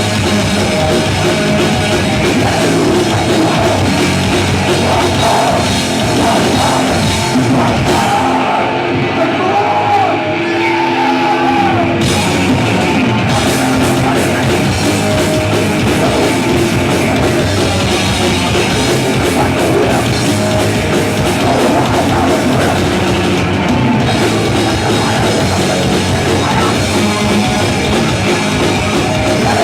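Heavy metal band playing live, with distorted guitars and a pounding drum kit. About eight seconds in, the bass and cymbals drop away for roughly four seconds, leaving a bending guitar line, before the full band comes back in.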